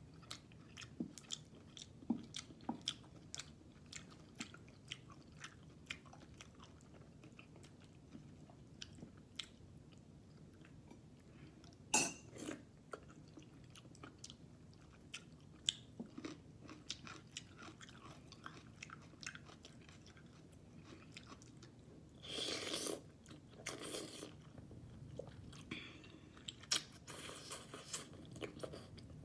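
Close-up chewing and mouth sounds of someone eating sardines sautéed with sweet potato leaves, with many small clicks throughout. A sharper knock comes about twelve seconds in, and there is a longer, louder noisy sound about two-thirds of the way through.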